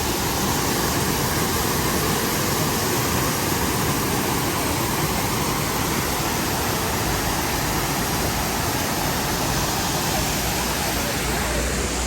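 Waterfall pouring, a loud, steady rush of falling water with no break.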